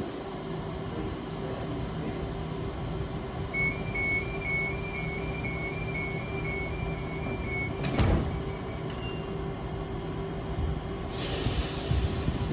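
Standing electric train humming at the platform while its door warning beeps sound, a rapid run of high beeps lasting about four seconds. The doors shut with a thump about eight seconds in, and a burst of hiss follows near the end.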